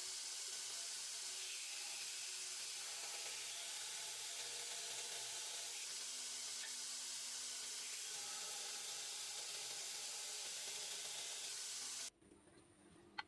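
A steady hiss, with faint tones beneath, that cuts off suddenly about twelve seconds in, followed by a single click near the end.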